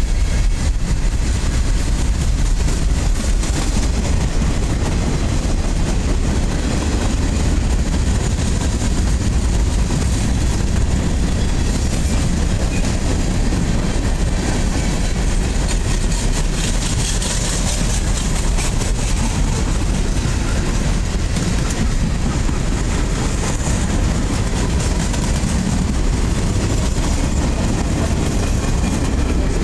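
Freight train cars rolling steadily past at close range: a continuous rumble and rattle of steel wheels on the rails.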